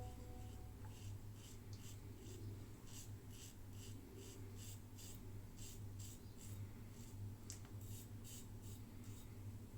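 Yates 921 H safety razor blade drawn over stubble in short repeated strokes, about two a second, over a steady low hum.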